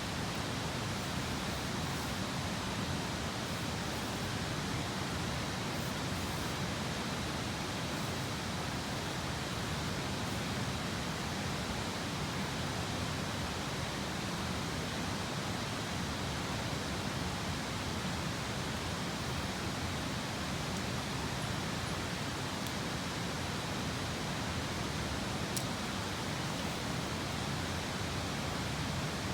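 Steady rush of a nearby river, an even unbroken noise, with a few faint crackles from a wood campfire.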